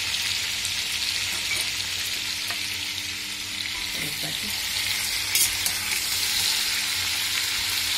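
Pork chunks, chopped garlic and celery root sizzling in olive oil in a stainless steel pot while a metal spoon stirs them, with a few clicks of the spoon against the pot a little after five seconds in.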